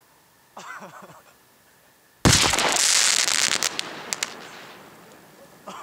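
Flash-powder charge exploding inside a microwave oven: one sudden loud blast about two seconds in, dying away over a few seconds with a few sharp cracks.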